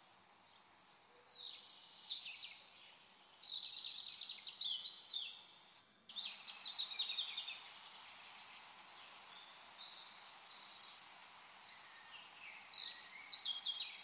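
Small birds chirping in bursts of quick down-slurred notes, one run from about a second in to about seven seconds, another near the end, over a faint steady hiss.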